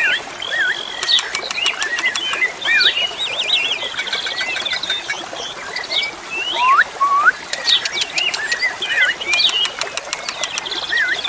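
Asian pied starling (jalak suren) singing a busy, unbroken song of looping whistles, gliding notes and fast clicking rattles.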